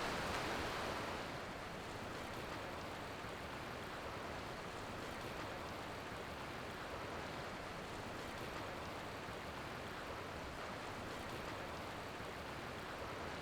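Steady rushing noise with no speech or music, like the sound of running water or surf.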